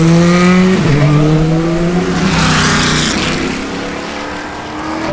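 A performance car accelerating hard along the track, its engine pitch rising through a quick gear change about a second in, then fading as it pulls away, with a burst of hiss around the middle. Another car starts accelerating near the end.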